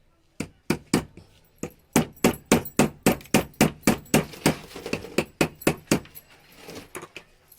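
Hammer tapping a ball bearing onto the shaft of a new rod cutter armature, about four sharp strikes a second for some six seconds, then a few softer taps.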